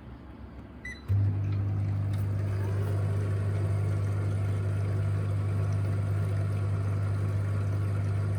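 Ecovacs Deebot T10 Turbo robot vacuum gives a short beep, then its motor starts about a second in and runs steadily with a low hum and a rushing whoosh.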